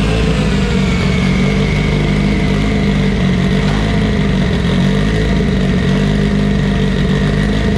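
Mitsubishi Lancer Evolution VIII's built 2.0-litre turbocharged four-cylinder running steadily at low revs, loud and even.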